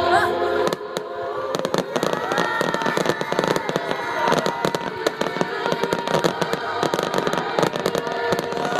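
Aerial fireworks going off in a rapid, dense string of crackling pops and bangs. Choral music plays for the first moment and cuts off under a second in.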